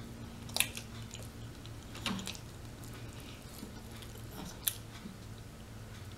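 Close-miked chewing of rotisserie chicken: a few sharp, wet mouth clicks, about three of them spread apart, over a steady low hum.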